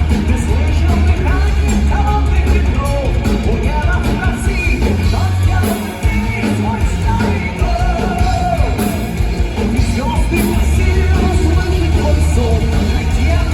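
Live rock band playing loud, with a singer's voice over heavy bass and drums; the sound drops briefly about six seconds in.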